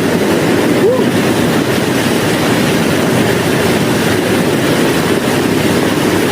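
Loud, steady rush of flowing water, with a brief short vocal sound about a second in.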